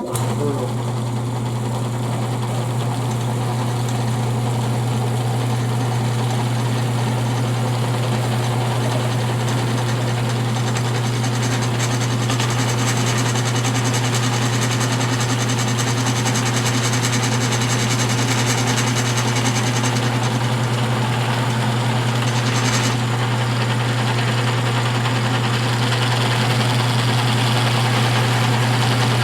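Electric motor spinning a lathe-turned wooden leather edge burnisher: it switches on at the start and runs with a steady low hum.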